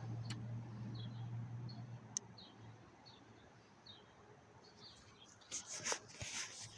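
A small bird chirping over and over in short high notes, about two a second. A steady low hum fades out about three seconds in, and a brief burst of rustling comes near the end.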